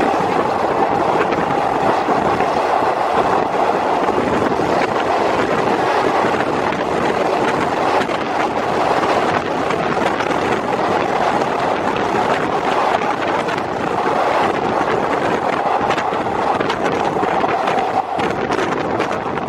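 Steady rush of wind and wheel-on-rail running noise from a locomotive-hauled passenger train travelling at speed, heard at an open coach window with wind buffeting the microphone.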